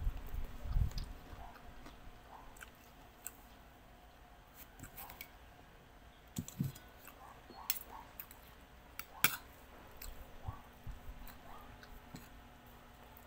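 A person chewing a mouthful of rice and sardines, with scattered clinks of a metal fork and spoon against a plate. A sharp clink about nine seconds in stands out, and there are low thumps at the very start.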